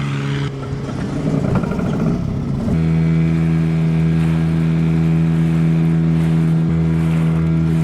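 Boat engine running, rough and uneven for a couple of seconds, then settling into a steady, higher-pitched drone about a third of the way in.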